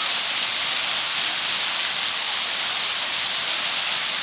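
Water fountain splashing steadily.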